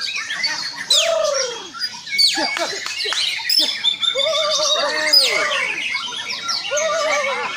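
White-rumped shama (murai batu) singing a continuous, varied song of clear whistles, fast down-sweeping notes and lower arched phrases.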